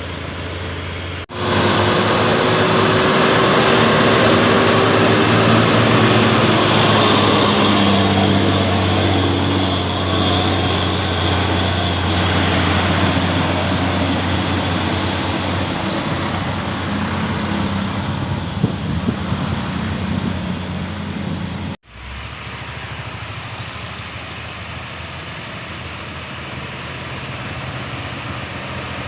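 Diesel engine of a loaded dump truck (Hino 500) running hard under load, with a steady low engine note over heavy mechanical and road noise. The sound breaks off abruptly about a second in and again about 22 seconds in, then continues more quietly.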